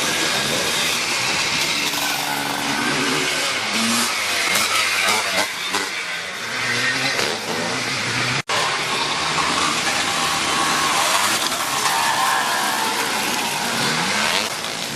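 Several classic twinshock motocross motorcycles racing, their engines revving up and down over one another. The sound cuts out for an instant a little past halfway.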